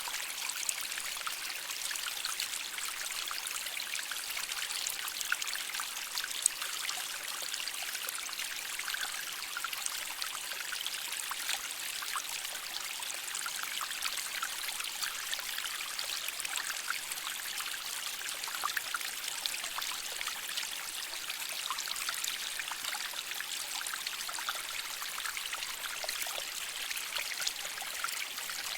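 Shallow stream water flowing and trickling over rocks, a steady babble of small splashes and gurgles.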